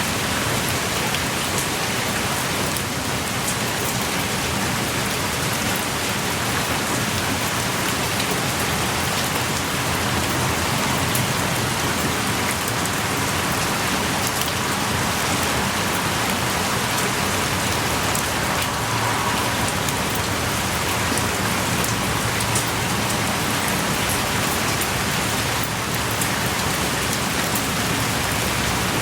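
Steady heavy rain pouring down, with scattered drops ticking among the even hiss.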